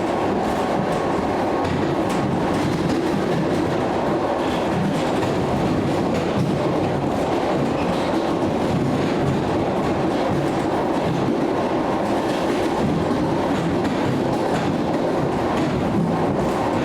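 ED9M electric multiple unit running along the track, a steady rumble with the clickety-clack of wheels over rail joints, heard from aboard the moving train.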